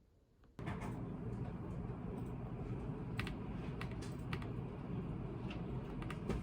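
Typing on a computer keyboard, a steady run of key clicks that starts abruptly about half a second in.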